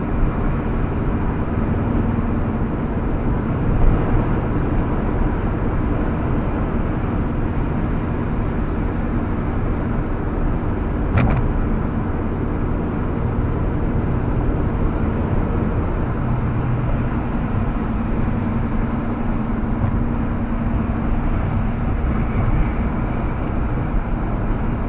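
Steady road and engine noise inside a moving car at highway speed, with one short click about eleven seconds in.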